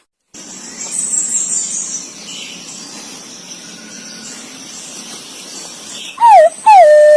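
Green pigeon (punai) calling: two loud whistled notes near the end, the first short and falling, the second sliding down and then held on one level tone. Before them, a faint hiss with a brief high chirping about a second in.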